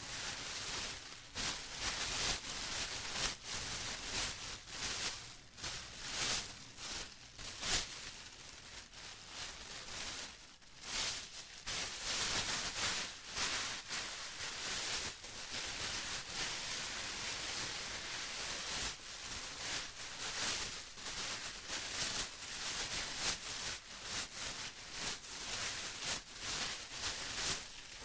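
Plastic being rustled and crinkled continuously in dense crackling bursts, with a brief lull about ten seconds in.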